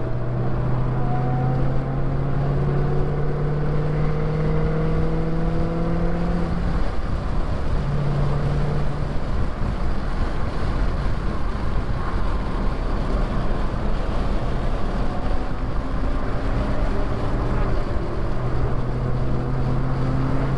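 Car engine droning at highway speed under a steady rush of road and wind noise, heard from inside the cabin. The engine note climbs gently over the first several seconds, drops back about six seconds in, and comes up again near the end.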